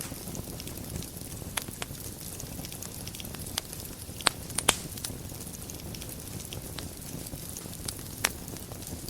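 Wood fire burning in a fireplace: a steady low rumble and hiss of flames with scattered crackles and a few sharp pops, the loudest a cluster about four and a half seconds in and another near the end.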